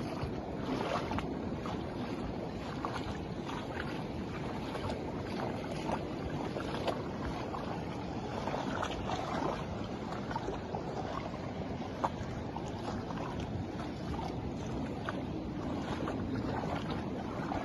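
Heavy rain falling, with a steady rush of water and many scattered sharp taps and drips, and one louder knock about twelve seconds in.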